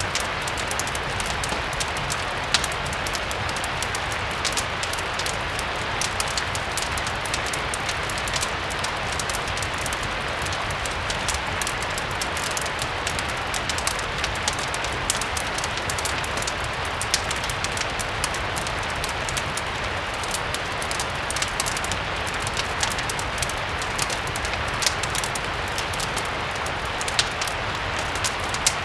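Steady rain mixed with a crackling wood fire: a continuous hiss of rainfall with frequent small sharp crackles and pops scattered through it, over a low steady rumble.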